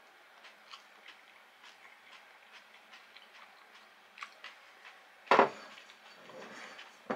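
Faint, irregular crunching clicks of someone chewing fried, breaded food. A brief, much louder sudden sound comes about five seconds in.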